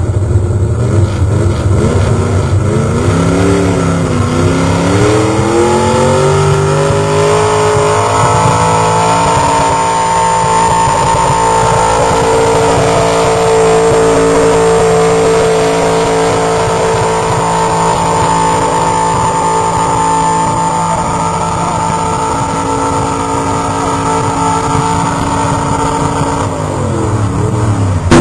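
Pulling truck's engine under full load in a truck pull: the revs dip, climb over several seconds and then hold high and steady for most of the run, before falling away sharply and rising again near the end.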